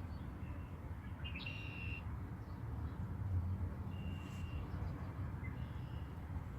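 Young birds giving four short, thin, high calls a second or two apart. The longest and loudest comes a little over a second in. A steady low rumble runs underneath.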